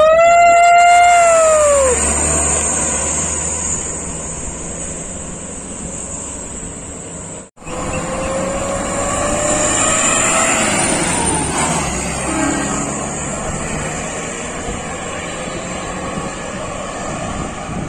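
A truck horn sounds one long blast whose pitch rises and then sags over about two seconds, over the low rumble of the truck's engine. After a sudden cut, more truck engine and road noise follows, with a faint rising whine.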